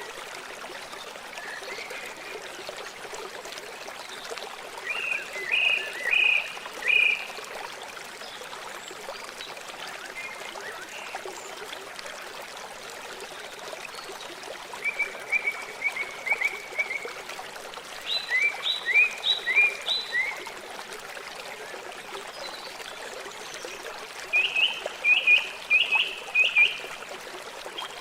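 River water flowing steadily, with a bird calling in four bouts of quick, high chirping notes over it.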